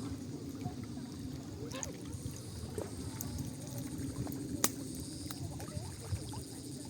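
Outdoor nature ambience: a steady, pulsing high trill of insects over a low steady rumble, with a few light clicks, the clearest a little past the middle.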